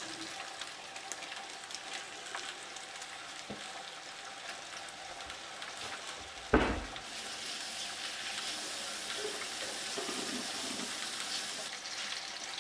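Raw chicken pieces frying with onions and green chilli in a pot over lowered heat: a steady, quiet sizzle. A single sharp knock cuts through about six and a half seconds in.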